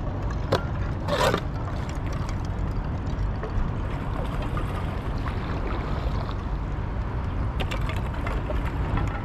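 Steady low wind rumble on the microphone out on open water, with a louder water splash about a second in, typical of a paddle stroke, and a few light knocks.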